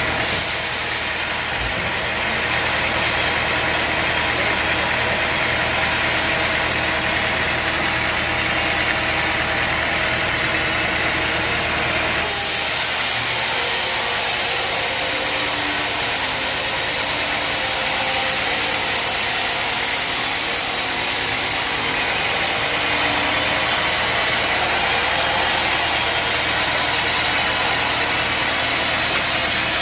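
Sawmill machinery running steadily: a loud engine-like hum under a hissing high end. A little before halfway through, the low hum drops back and the hiss brightens for about ten seconds, then the earlier sound returns.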